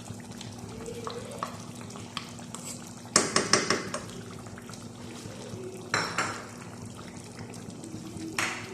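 Chicken and yogurt masala being stirred and scraped with a spoon in a karahi while it fries. A quick run of clinks and scrapes comes about three seconds in, with shorter ones near six and eight seconds, over a low sizzle and a steady hum.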